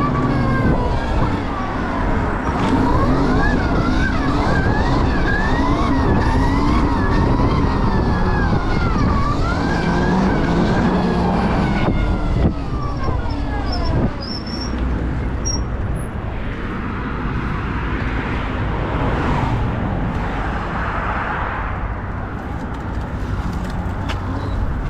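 Electric dirt bike's motor whine rising and falling quickly with the throttle over heavy wind noise on the microphone, for about the first half; after that mostly wind and tyre noise with little whine.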